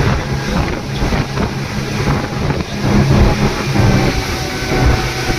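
Motorboat engine running steadily under way, with rushing water and wind buffeting the microphone.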